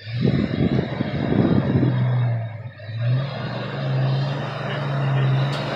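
Jeep Cherokee XJ engine running, a low wavering note, as the Jeep creeps down concrete steps. Bursts of low rumbling noise in the first two seconds and a sharp click near the end.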